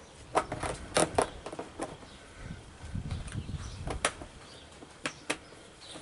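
Scattered sharp clicks and knocks, a quick cluster in the first second or so and single ones later, from hand work on a baler belt and its metal lacing connector.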